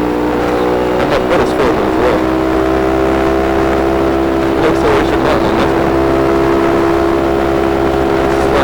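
Motorcycle engine running at a steady cruising speed on the highway, holding one even pitch, with wind and road rumble underneath.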